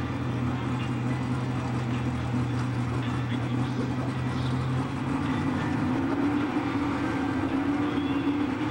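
Drag-race car engines running at the starting line, a steady drone heard from the stands. The lower note stops about five seconds in and a higher, stronger note carries on.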